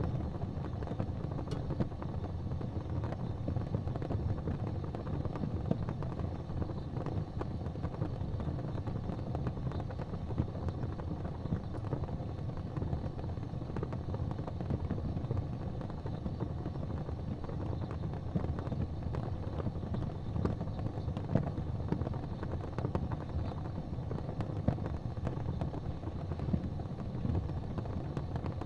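Fire burning in a fireplace: a steady low rumble of flames with frequent small crackles and a few sharper pops.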